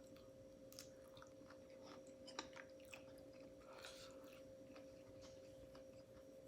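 Faint close-miked chewing and mouth sounds of someone eating buttery shrimp: soft wet smacks and small clicks at irregular moments over a faint steady hum.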